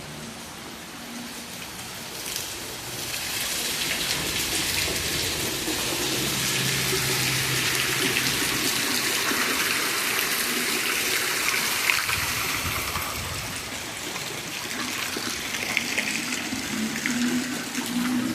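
Heavy rain pouring down, a steady hiss that grows louder about three seconds in, with scattered drops ticking.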